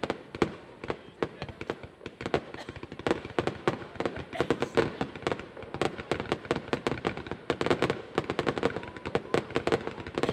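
Fireworks display with shells bursting in rapid succession: a dense run of sharp bangs and crackles, several a second.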